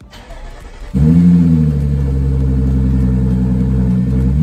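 An Audi's engine started by push button: it fires about a second in with a loud start-up flare that rises and then settles into a steady fast idle. Near the end a rev begins to climb.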